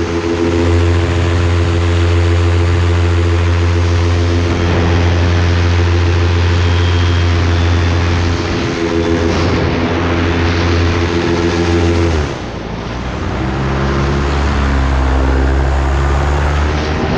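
An engine running steadily with a constant drone. About twelve seconds in its pitch drops and the sound dips briefly, then it runs on at the lower pitch.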